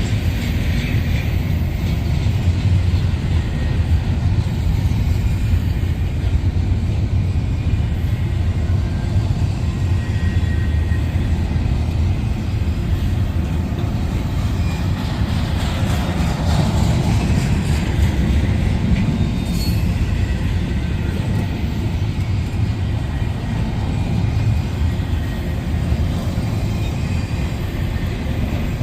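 A long train rolling past close by: a steady, loud rumble of wheels on rail with continuous clatter from the cars.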